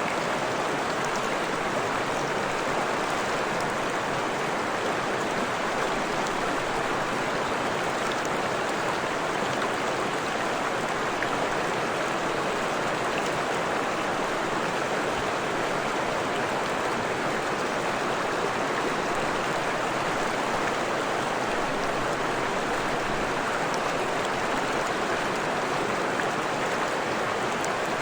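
Forest stream flowing over rocks: a steady rushing and babbling of water.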